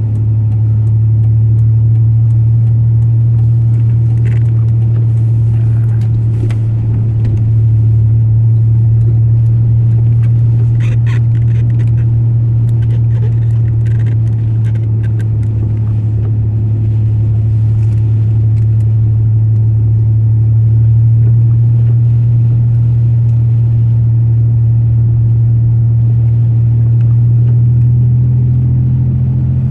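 Pickup truck engine and tyre noise heard from inside the cab while driving: a steady low drone whose pitch edges up slightly a few times, most clearly near the end.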